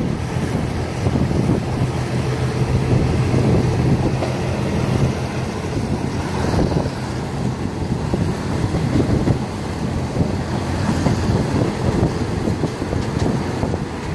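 Train running along the track, a steady low engine hum under a loud rumble, with wind buffeting the microphone.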